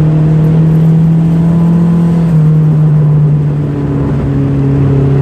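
Turbocharged Toyota Tercel engine running at steady revs, heard from inside the car, its pitch dropping slightly about two seconds in and then easing down slowly.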